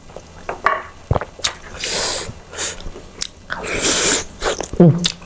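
Close-miked mukbang eating sounds: grilled chicken and rice eaten by hand, with chewing, wet mouth clicks and lip smacks, and two longer breathy hisses through the mouth.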